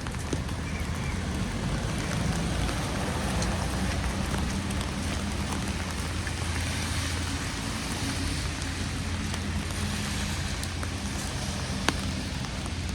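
Steady hiss of wet snow falling, with scattered drips ticking and a low rumble underneath; one sharper tick near the end.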